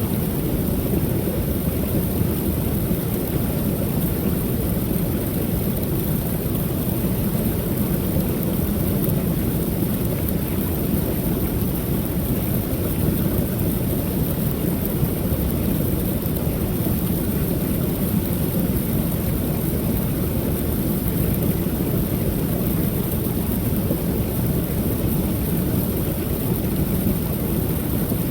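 Creek waterfall pouring steadily, an unbroken deep rush of falling water.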